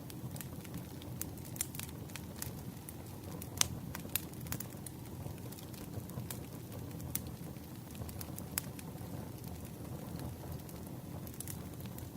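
Campfire burning, with a steady low rumble and irregular sharp crackles and pops from the wood.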